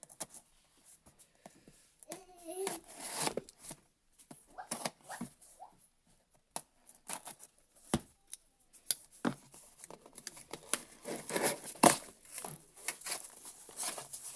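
A cardboard shipping box being opened by hand: packing tape tearing and cardboard and packing material crinkling and rustling, in irregular bursts broken by clicks and knocks.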